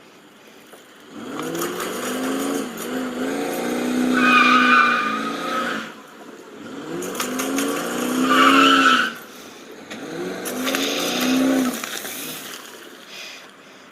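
A vehicle engine revs hard in three surges, its pitch rising and falling each time. A high squeal at the peaks of the first two surges fits spinning, squealing tyres under load.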